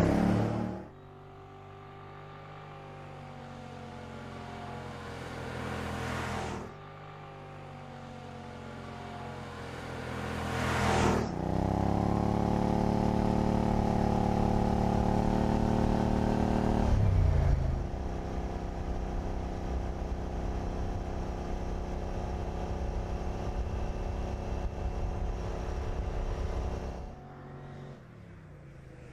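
Car engines running and passing by: right at the start and again about eleven seconds in, the engine note drops sharply as a car goes past. Between the passes the pitch climbs slowly, then a loud steady engine note holds for several seconds before settling to a quieter steady drone that fades near the end.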